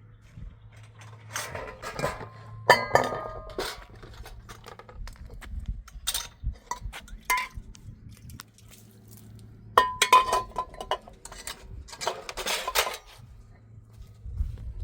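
Dishes and utensils clinking and clattering in several separate bursts, some strikes ringing briefly.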